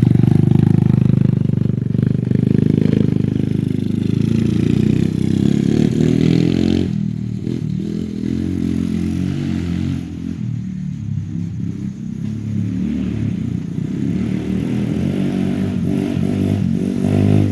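125cc ATV engine running under load as the quad is ridden, revving up and easing off so its pitch rises and falls; the throttle drops back about seven seconds in and again around ten seconds before picking up.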